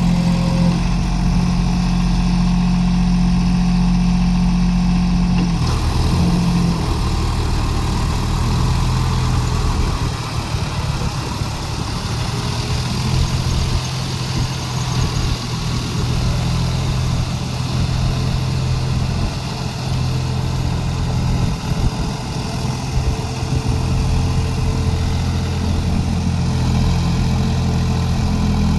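John Deere 5050D tractor's three-cylinder diesel engine running steadily, its pitch dropping a little about six seconds in and then holding.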